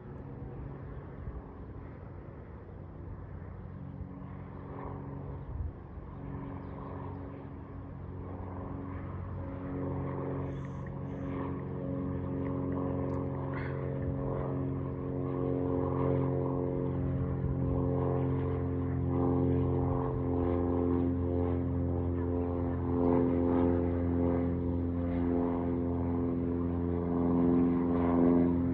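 Aircraft engine running, a steady pitched drone that grows gradually louder.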